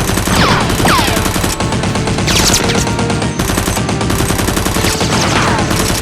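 Sustained rapid automatic gunfire sound effects, shot after shot with no break, laid over a Nerf battle. A few descending whistles cut through the firing.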